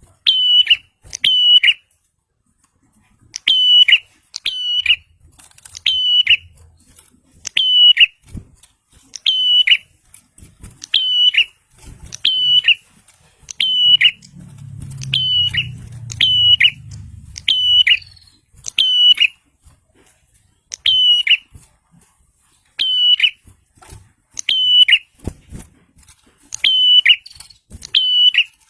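A prinia (prenjak) calling: short, sharp, high notes repeated over and over, often in quick pairs, about one every second. A faint low rumble sits under the calls about halfway through.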